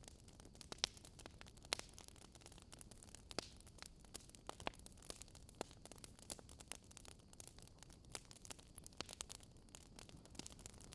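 Wood fire crackling quietly: irregular sharp pops and snaps over a soft steady hiss.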